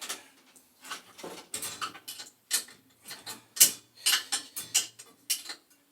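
Irregular metallic clicks and scrapes of a wrench and fitting as a boiler's pilot tube is worked into place and tightened by hand in a cramped spot.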